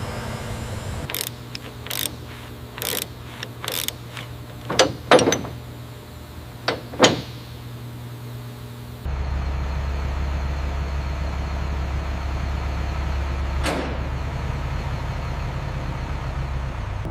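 Mechanical sounds: a string of short clicks and knocks over a low steady hum, then a louder steady low rumble that starts abruptly about nine seconds in, with one brief whoosh near the end.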